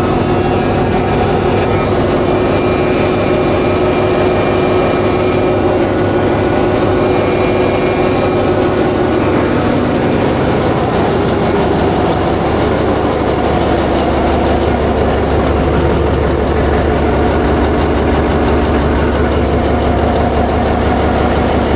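Freshly overhauled diesel generator engine running steadily on its test run. Its note changes about ten seconds in, then holds steady again.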